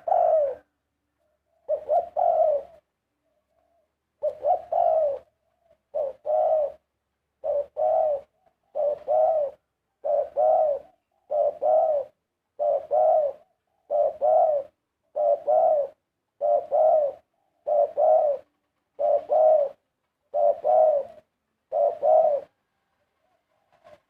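Spotted dove cooing: a long, regular series of short two-part coo phrases, about one every second and a half, stopping shortly before the end.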